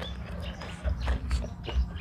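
Wind buffeting the microphone as an uneven low rumble, with a few light clicks about a second in and a faint bird chirp.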